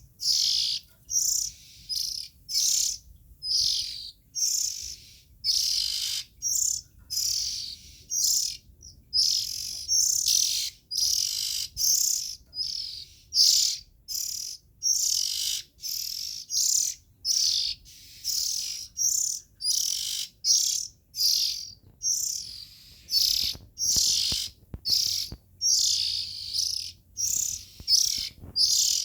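Young Oriental magpie-robin calling: short, high-pitched chirping phrases repeated over and over, about one or two a second, with brief gaps between them.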